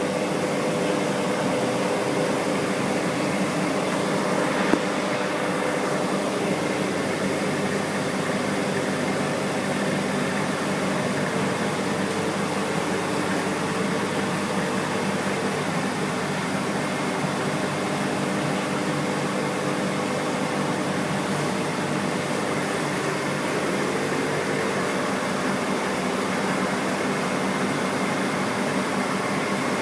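Aquarium pumps and filters running: a steady hiss of moving water and air over a low, even motor hum. One short tap sounds about five seconds in.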